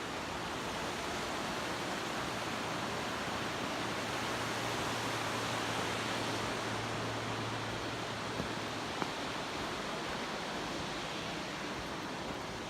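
Steady rushing of a river's flowing water, a little louder in the middle, with a couple of faint clicks about two-thirds of the way through.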